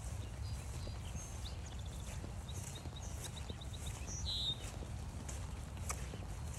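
Footsteps on a forest trail under a low, steady rumble, with small songbirds calling: a quick run of high chips, then a short, louder call about four seconds in.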